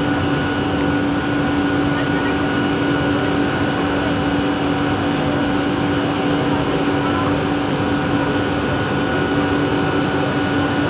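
Bombardier Innovia ART 200 train car humming steadily: several high, level whining tones over an even rumble, with no rise or fall in pitch.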